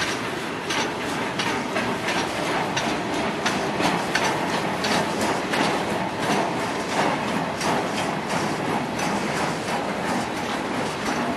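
Freight train's boxcars rolling past close by: steel wheels clicking over the rail joints in a continuous run of clacks over the steady noise of the moving train.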